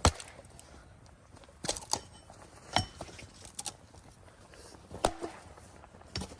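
A series of about seven irregular knocks and clinks, the loudest right at the start, two of them leaving a brief ringing tone.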